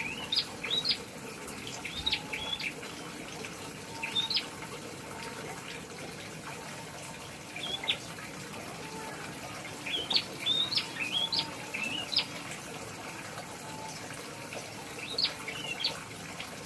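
Prenjak songbird chirping: clusters of short, sharp, rising notes in quick runs every few seconds, over a steady background hiss.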